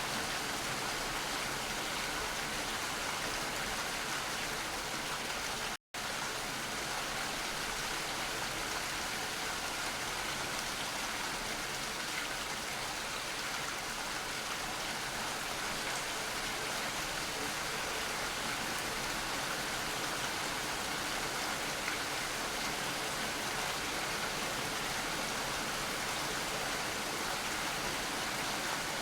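Steady rainfall, an even hiss that cuts out completely for an instant about six seconds in.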